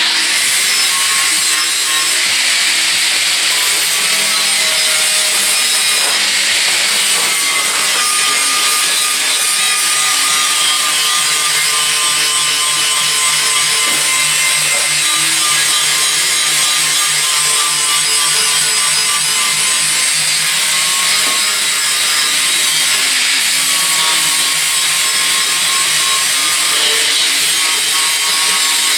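Handheld power tool running steadily under load against the sheet metal of a pickup bed's rust-repaired wheel well, giving a loud, even hiss with a faint steady whine.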